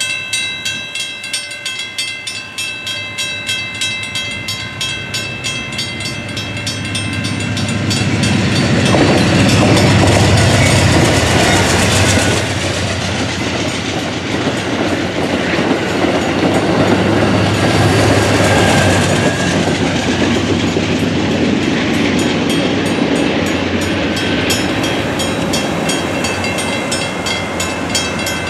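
Grade-crossing warning bell ringing in steady, repeated strokes as an Amtrak Downeaster passenger train approaches and runs through the crossing. The train's noise on the rails builds from about six seconds in, is loudest around ten seconds, and carries on as the cars pass. The bell stands out clearly again near the end.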